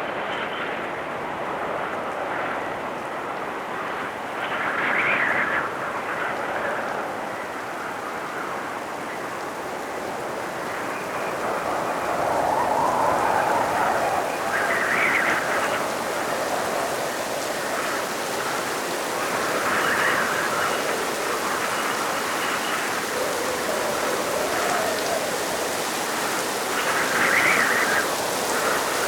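Steady rain hissing, swelling louder several times.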